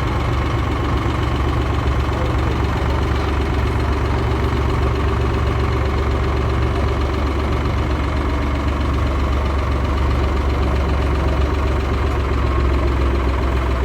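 Canal boat engine running steadily at a low, even rate, its sound deep and unbroken.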